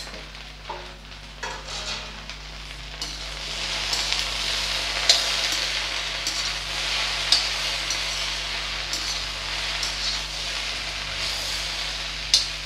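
A lid is lifted off a kadhai, then chopped okra sizzles in hot oil as it is stirred and tossed with a metal spatula, the sizzling swelling about three seconds in, with a few sharp clinks of the spatula against the pan.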